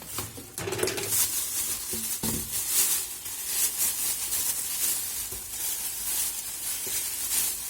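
Crinkling and rustling of plastic packaging being handled, an uneven crackle of many small clicks.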